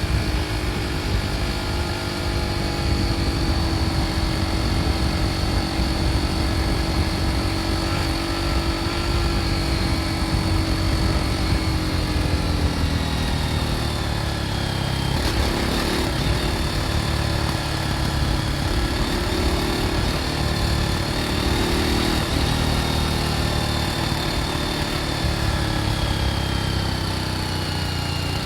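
BMW G 310 R motorcycle's single-cylinder engine running through its stock exhaust while riding at a fairly steady speed. The engine note eases down slightly and wavers partway through, over a constant low rumble.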